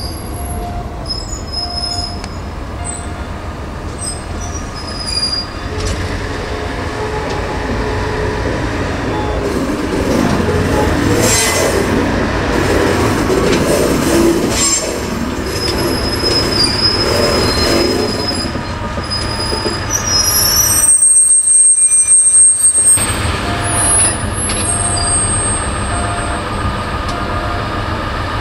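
DD16 diesel locomotive and shunting vehicle moving slowly through the depot tracks: a steady low diesel engine hum, with steel wheels squealing in thin high tones on and off. A louder stretch about three quarters of the way in.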